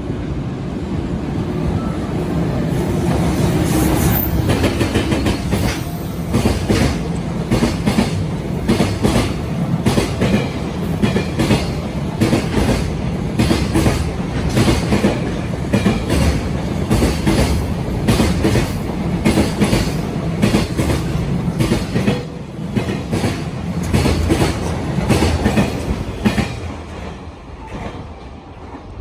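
JR Freight EF210 electric locomotive hauling a container train through at speed: the locomotive's nose-suspended traction motors rise to a loud drone in the first few seconds, then the long string of freight wagons clatters over the rail joints in a steady clickety-clack that goes on for about twenty seconds and fades near the end.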